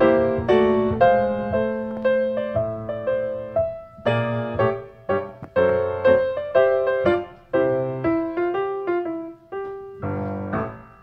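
Piano music: chords and single notes struck about twice a second, each fading before the next.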